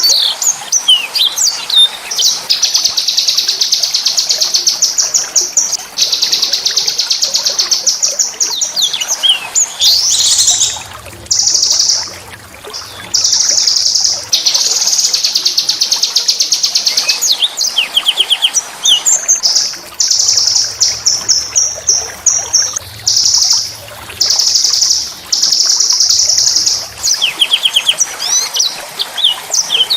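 Small songbird singing loud, high-pitched rolling trills of one to three seconds each, broken by short gaps and quick sweeping chirps: a harsh, fast 'ngerol' song used as masteran to teach murai batu and kacer.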